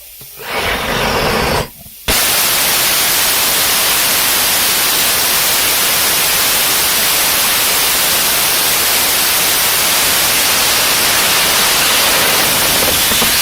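Student-built HOM-900 hybrid rocket engine on a static fire test. A short burst of hissing about half a second in, a brief lull, then the engine lights about two seconds in with a sudden, loud, steady rushing roar of exhaust that holds.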